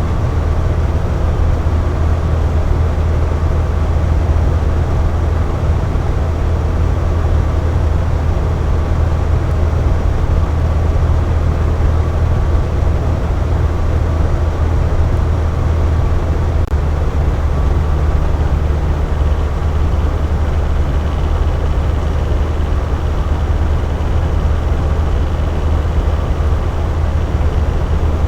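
Box fan running steadily: a constant low hum with whooshing air noise and a few faint steady tones from the motor and blades.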